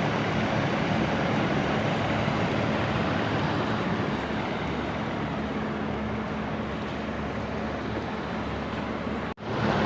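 Water rushing steadily out of a burst old water pipe under mains pressure, with a faint steady low hum beneath; it cuts off abruptly near the end.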